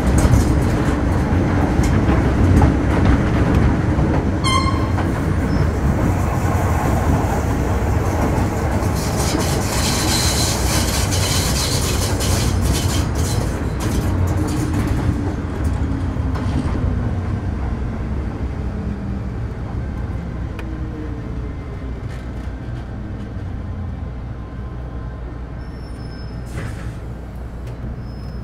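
Metro Cammell M-Train EMU with GEC GTO chopper traction running, then slowing, with its motor whine falling in pitch and the running noise dying down. About four seconds in, another train's horn sounds briefly.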